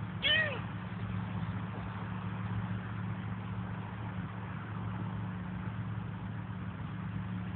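A seagull gives one short call that rises and falls in pitch, about a quarter of a second in, over the steady low hum of an idling engine.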